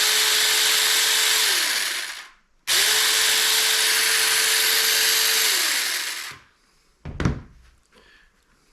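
Battery-powered Supstable 6-inch mini chainsaw run with no load: motor and chain whir at a steady pitch for about two seconds and wind down, then run again for about three and a half seconds and wind down. A single thump follows about a second later.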